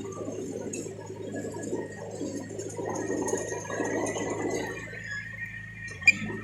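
Crawler bulldozer's diesel engine running steadily, with rattling and clanking over it that grows louder in the middle, and a single sharp click near the end.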